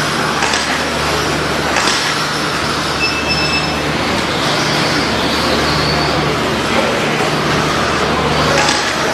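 A pack of electric stock-class RC short-course trucks racing: a steady wash of motor whine and tyre noise, with a few sharp knocks from landings or hits, one about half a second in, one near two seconds and one near the end.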